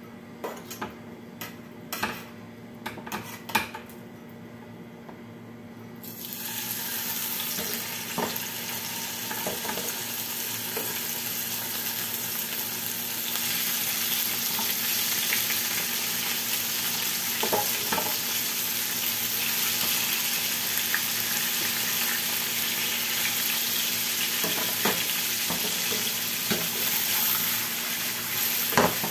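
Salmon fillets sizzling in hot oil in a frying pan. The sizzle starts suddenly about six seconds in, as the fish goes into the oil, and stays steady from then on. A few light clicks and taps come before it, and more clicks come near the end as the tongs work the fish.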